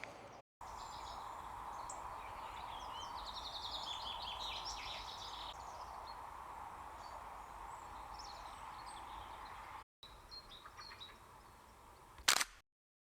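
Several small songbirds chirping and trilling in a dawn chorus over a steady background hum. A short sharp click-like sound comes near the end.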